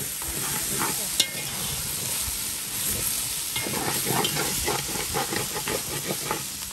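Shrimp sautéing in a pot with a steady sizzle while being stirred with a metal spoon. A sharp clink of the spoon against the pot comes about a second in, then a run of quick scraping strokes in the second half.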